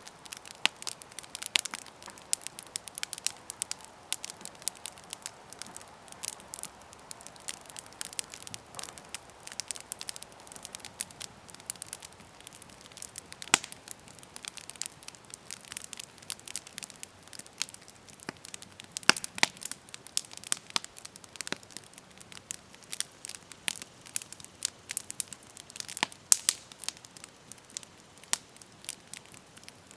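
Wood campfire burning, crackling steadily with many small irregular pops over a soft hiss and a few sharper, louder snaps.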